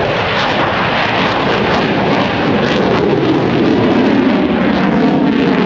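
An F-22 Raptor's twin Pratt & Whitney F119 afterburning turbofans making loud jet noise as it passes. The sound swells toward the middle, and its pitch drops over the second half as the jet goes by.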